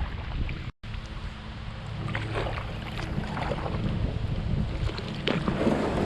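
Wind buffeting the microphone on a kayak out on open water, with faint water sloshing and small knocks against the hull. The sound cuts out completely for a moment just under a second in.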